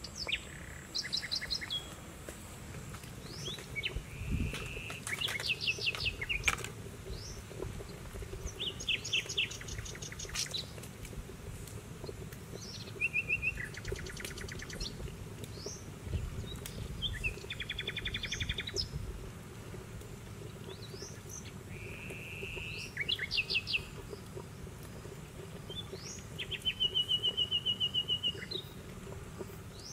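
Birds calling throughout: repeated short high trills and quick rattling runs of notes every few seconds, over a faint low rumble.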